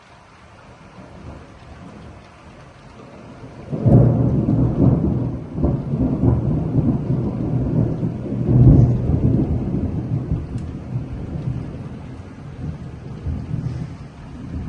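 Thunder close by: a sudden crack about four seconds in, then a long low rumble with a second loud peak near the middle, slowly dying away over steady rain hiss.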